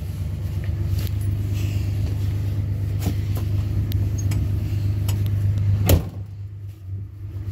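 A vehicle engine idles steadily with a low hum. About six seconds in a single sharp knock, like a door shutting, is heard, and after it the engine sounds duller.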